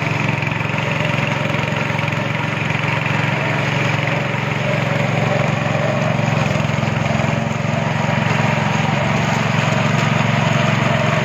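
Speedboat engine running steadily under way, a constant loud drone with a rushing noise over it.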